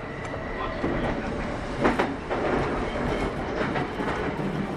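Running noise inside a Kintetsu 8810 series electric train at speed: a steady rumble of wheels on rail, with one sharp clunk about two seconds in.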